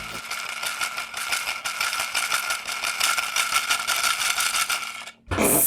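Small motor of a toy washing machine from a DIY candy kit whirring steadily with a fast rattle as its drum spins, cutting off suddenly near the end.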